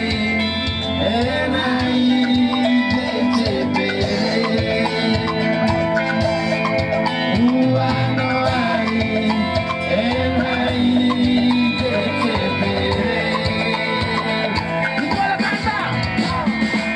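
A live band playing a song, with a singer's voice carrying the melody over a full, steady accompaniment.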